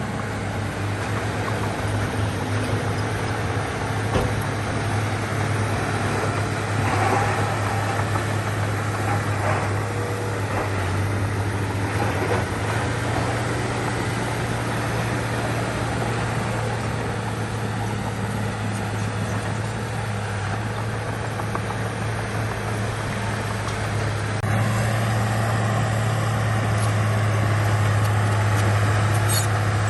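Diesel engine of heavy earth-moving machinery running steadily with a deep, constant drone. About three-quarters of the way through the sound shifts and grows a little louder, with a faint steady whine added.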